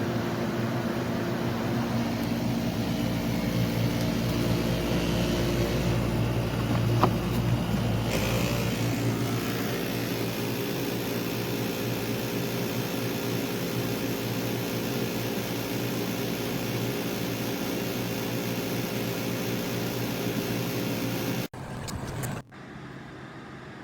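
SereneLife SLPAC7UK portable air conditioner running on high cool: a steady hum of fan and compressor with several steady tones over a rushing air noise. About 21 seconds in, the level drops abruptly to a quieter hiss.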